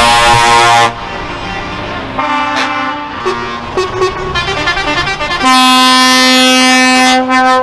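Truck air horns sounding: a loud horn stops about a second in, then several quieter horns of different pitches sound, and a loud, steady horn blast starts about halfway through and stops shortly before the end.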